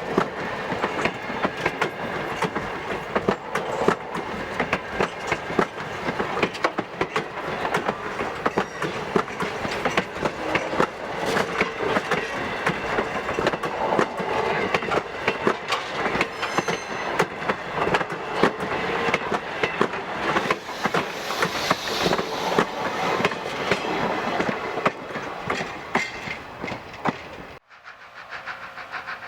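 Steam-hauled passenger train rolling along, its wheels clicking steadily over the rail joints with a rushing rumble. Near the end the sound cuts off suddenly to something much quieter.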